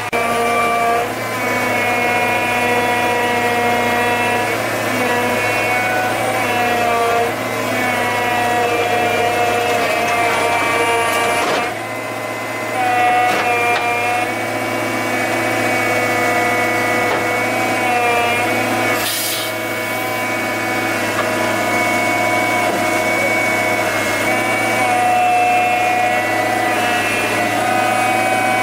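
A motor-driven machine running continuously, its pitch stepping up and down every few seconds as its speed changes.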